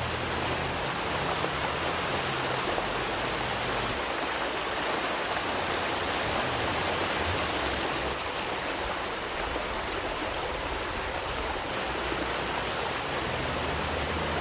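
Floodwater from a heavy downpour rushing along a street in a steady, loud torrent.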